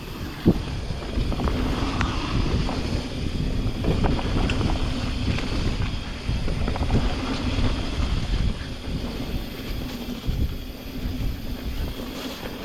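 Mountain bike riding down a dirt trail: wind buffeting the camera microphone over a steady rumble of tyres on the ground, with frequent sharp rattles and knocks from the bike, the loudest about half a second in.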